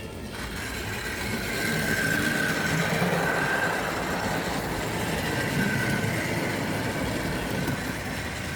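Tri-ang OO-gauge model train running on its track: the small electric motor whines over the rattle of wheels on rail. It grows louder about a second in and stays steady.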